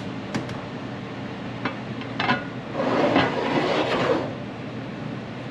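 Cooking pots being moved between burners on a stovetop: a few light knocks, then a scraping slide about three seconds in.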